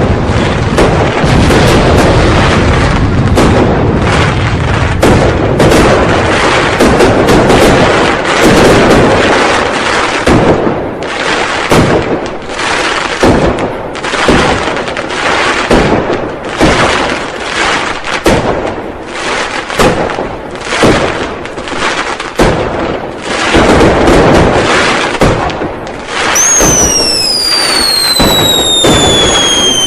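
Firecrackers and fireworks going off in a dense, continuous crackle of bangs, thinning to separate bangs around the middle, then a long whistle falling in pitch near the end.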